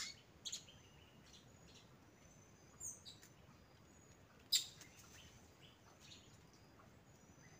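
Scattered short, high bird chirps and whistles over faint background noise, with a brief pair of gliding notes about three seconds in and one sharp, louder call about four and a half seconds in.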